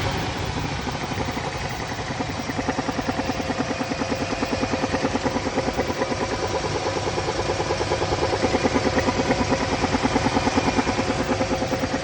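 Pontiac G-body car engine idling with a steady, fast rhythmic pulse in its sound. The owner is unsure whether this points to a misfire or a spun bearing.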